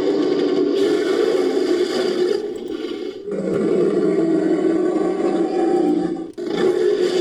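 Monster roar sound effect, mixed from movie-creature roars: long, sustained roars one after another, with brief breaks about three seconds in and again near the end.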